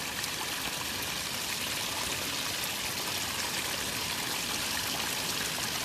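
Steady rush of running water from a rain-swollen ditch or stream.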